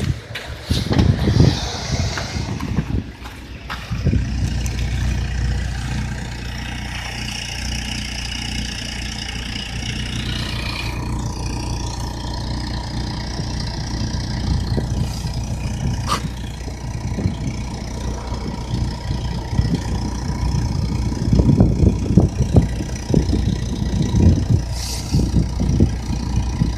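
Lada Granta's VAZ-21126 1.6-litre 16-valve four-cylinder on a winter cold start: uneven cranking and sputtering for the first few seconds, then the engine catches about four seconds in and settles into a steady idle. Uneven low rumbling joins near the end.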